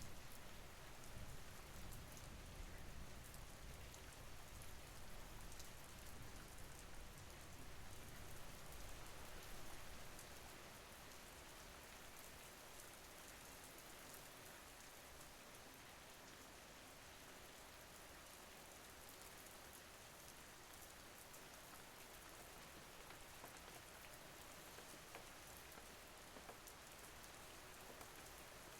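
Faint steady rain: an even hiss with scattered drop ticks. A low rumble underneath drops away about ten seconds in.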